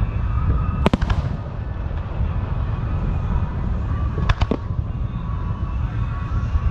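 Fireworks going off: a quick cluster of sharp cracks about a second in and another a little past the middle, over a continuous low rumble.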